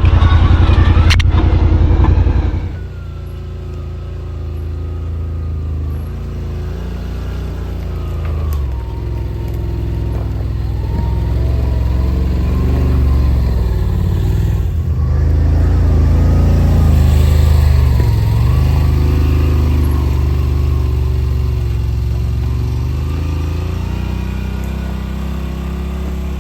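Side-by-side engine running, its pitch rising and falling with the throttle; very loud for the first couple of seconds, then it drops to a lower, steadier level.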